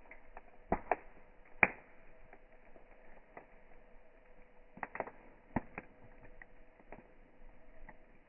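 Wood campfire crackling: scattered sharp pops, a cluster in the first two seconds and another around five seconds in, over a faint steady hiss.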